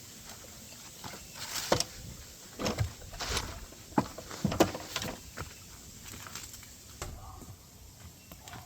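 Scattered knocks, clunks and rustling of someone moving about and handling objects, with the sharpest knocks in the middle few seconds.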